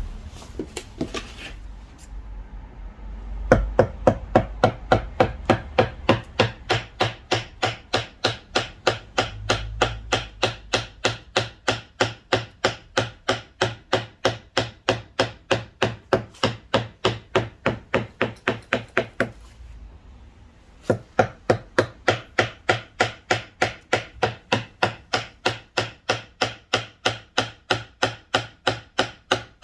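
A mallet driving a V-shaped carving chisel into a wooden signboard: sharp, even strikes at about three a second, starting a few seconds in, with a short pause about two-thirds through before the tapping resumes.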